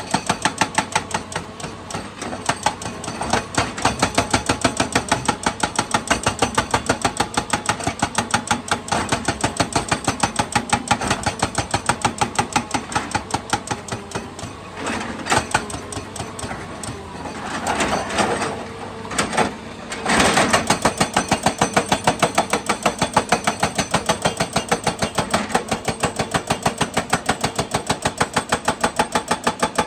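Excavator at work, with an even, rapid clicking about four times a second. About halfway through, the clicking gives way for a few seconds to louder noisy swells, then resumes.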